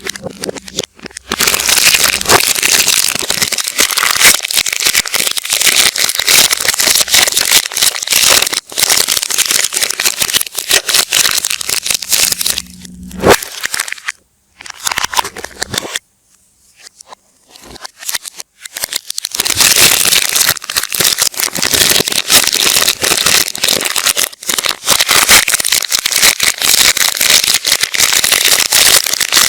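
Soap wrappers of paper and plastic being crinkled and torn open, played backwards: a dense crackling and tearing, with a pause of a few seconds about halfway through.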